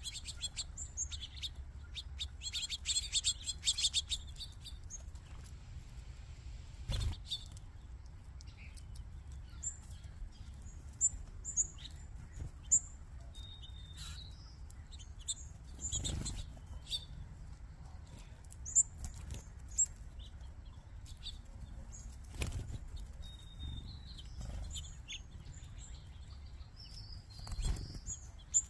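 A flock of small backyard birds chirping, with a dense burst of many chirps about three seconds in and scattered single chirps after. Several brief whooshes of wings flapping break in.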